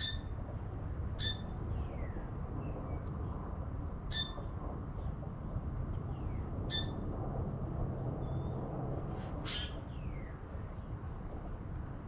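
Birds calling: five short, sharp, high calls a few seconds apart, with a few faint falling whistle notes between them, over a low steady background rumble.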